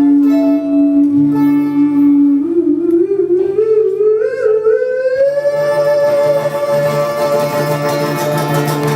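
Live acoustic guitar song ending on a long held sung note. The note stays level for a couple of seconds, then slides up with a wavering vibrato to a higher pitch and holds, over sustained guitar.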